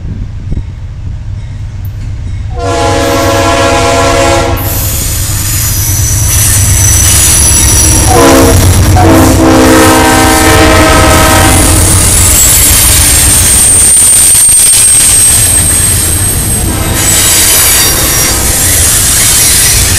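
Freight train diesel locomotives sounding their air horn in two long blasts, about two seconds in and again about eight seconds in, as they approach and pass close by over a steady low engine rumble. After they pass, the double-stack container cars roll by with high-pitched wheel squeal.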